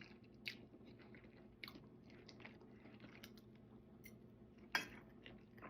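Faint chewing: a person eating, with scattered soft mouth clicks and smacks, one sharper smack a little under five seconds in.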